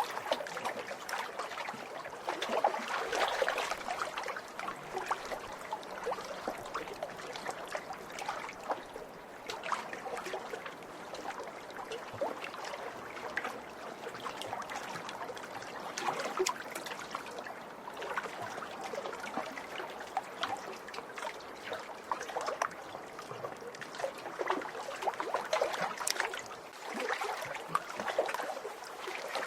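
Small waves lapping and splashing at a lake shore: continuous watery sloshing with many small splashes, swelling and easing every few seconds.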